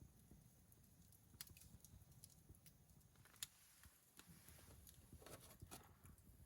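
Near silence, with faint scattered clicks and taps and one sharper tick about three and a half seconds in.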